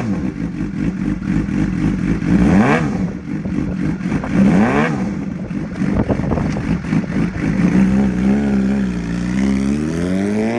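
2011 Suzuki GSX-R750's inline-four engine running through an aftermarket M4 exhaust. It idles, with two quick throttle blips about two and a half and four and a half seconds in, and rising revs near the end.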